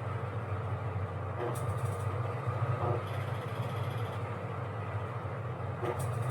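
Washing machine running: a steady motor hum, with a short swishing accent every second or two as the drum turns.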